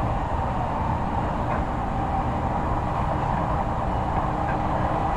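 Interior running noise of an Odakyu 3000 series electric train, heard inside motor car DeHa 3213: the train runs on steadily with an even, unchanging rumble.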